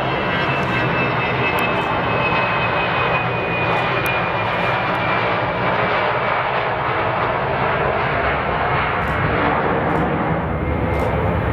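Fokker 100 airliner's twin Rolls-Royce Tay turbofans at takeoff power: a loud, steady jet roar. A high whine sinks slightly in pitch over the first few seconds as the aircraft passes.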